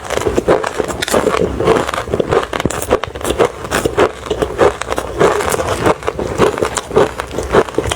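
Refrozen crushed ice being chewed close to the microphone: continuous crunching and crackling as the ice chips break between the teeth, several crunches a second.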